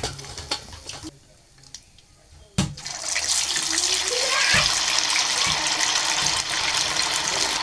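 A knock, then water from a tap starts running steadily into a sink about three seconds in.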